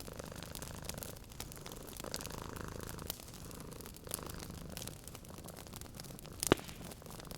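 Cat purring steadily in slow swells, over the crackle of a wood fire in a fireplace, with one sharp pop near the end.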